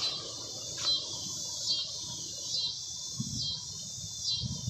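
A bird calling outdoors: a short, high, falling chirp repeated at an even pace of a little over one a second. A few soft low thumps come in the second half.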